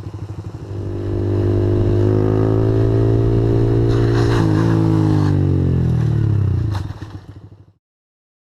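Honda CG125's single-cylinder four-stroke engine puttering, then revving up hard and held high for several seconds. About four seconds in a burst of clatter and scraping comes and the engine pitch dips; a sharp knock follows near the end as the revs fall away, and the sound cuts off suddenly.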